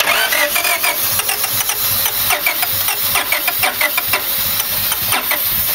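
Starter cranking a 1996 Honda Civic CX's D16Y7 1.6-litre four-cylinder, which starts abruptly and fires unevenly in irregular pops, sounding like it wants to start without running cleanly. The rough firing began after the distributor coil pack was replaced; the owner thinks the timing may have jumped a tooth or two.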